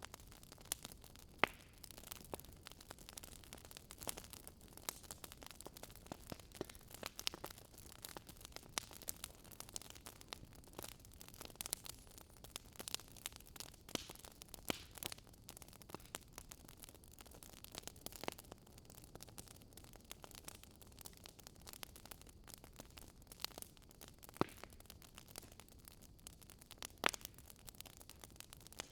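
Wood fire crackling: a soft hiss with irregular sharp pops and snaps, a few louder pops standing out.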